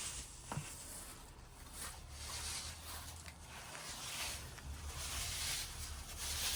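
Repeated rasping sweeping strokes over the ground, with a steady low wind rumble on the microphone.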